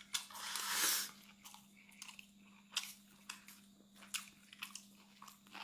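Eating sounds: soft crunches and scattered sharp clicks, with a brief hissy rustle about a second long at the start. A faint steady hum runs underneath.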